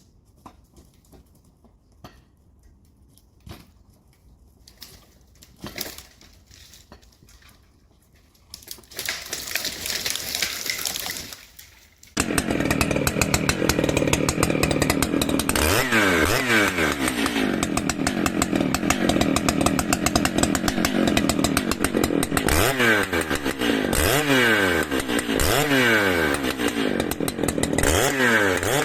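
Faint scattered clicks and knocks, then a loud rushing noise for about three seconds. About twelve seconds in, a chainsaw starts running loud at high revs, its pitch dropping and picking up again over and over.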